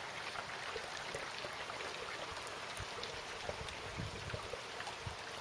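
Heavy, teeming rain falling steadily, an even hiss with scattered faint drips and patters.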